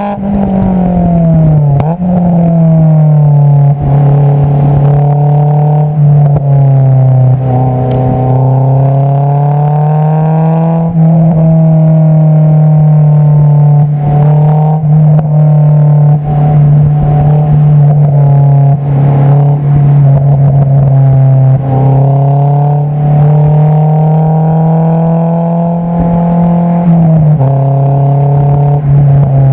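Honda S2000 AP2's 2.2-litre inline-four through an Invidia Q300 cat-back exhaust, heard right at the tailpipe, loud. The engine note falls and steps at the start, holds steady, climbs about ten seconds in and holds, then drops sharply near the end.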